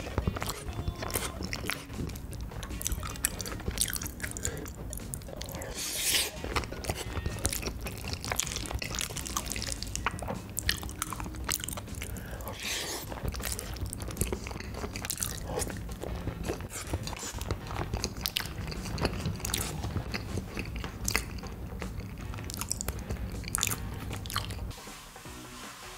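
Close-miked eating: a person chewing and biting food, with many sharp crunchy bites and mouth clicks.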